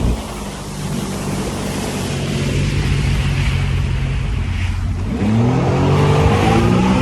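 Jet ski engine running steadily under a rushing noise, then revving up about five seconds in, its pitch rising.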